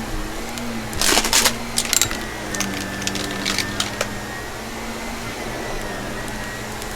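Vacuum cleaner running with a steady motor hum and faint whine, with bursts of crackling rattle about a second in, near two seconds and around three and a half seconds as crunchy debris is sucked up.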